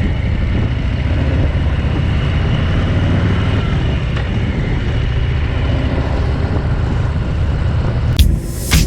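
Harley-Davidson motorcycle's V-twin engine running steadily at cruising speed on the road, a dense low rumble. Near the end a few sharp, loud knocks cut in.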